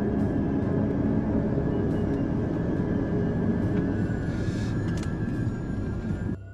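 Rolls-Royce Spectre electric car at speed: steady road and wind rush with a low rumble and a thin, steady high whine. The sound cuts off suddenly near the end.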